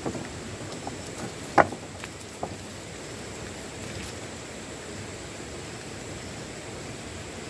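A steady rushing hiss with a few knocks over it; the loudest is a single sharp knock about one and a half seconds in, with a fainter one just after.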